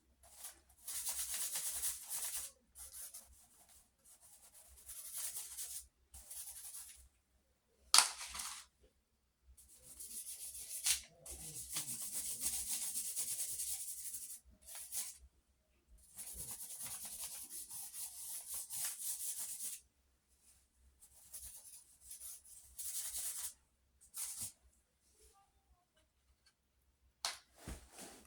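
Scratchy rubbing of a drawing tool across paper as a design is sketched, coming in bursts of a second to about four seconds with short pauses between. There is a sharp tap about eight seconds in.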